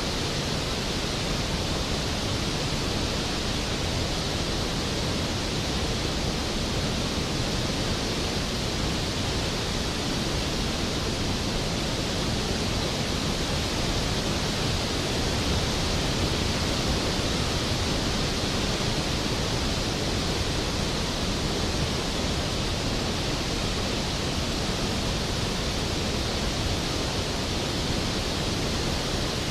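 Skógafoss waterfall: a large cascade of glacial river water falling into its plunge pool, a steady, unbroken roar.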